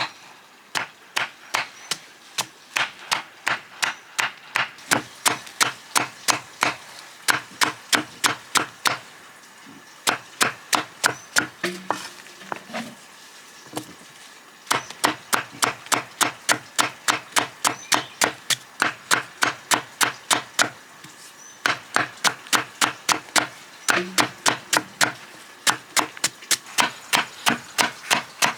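Rapid, regular chopping with a knife or cleaver on a wooden board, about three strokes a second, in runs with short pauses between them.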